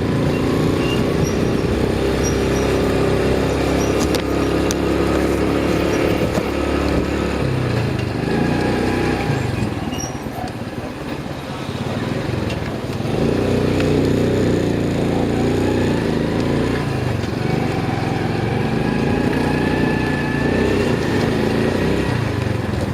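Motorcycle engine running while riding, its pitch rising and falling as the throttle opens and closes, with a brief dip in loudness around the middle.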